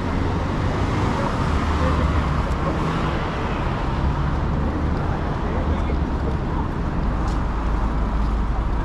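Downtown street ambience: a steady low rumble of road traffic with indistinct voices of people nearby.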